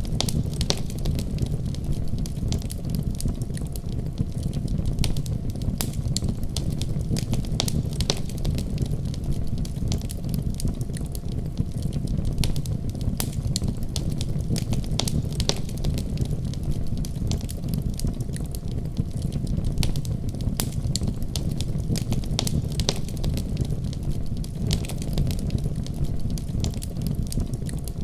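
Wood fire crackling and popping: a steady low rumble of burning with many sharp, irregular pops and snaps throughout.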